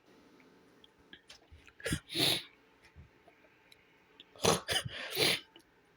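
A man coughing in two short bouts, about two seconds in and again about four and a half seconds in.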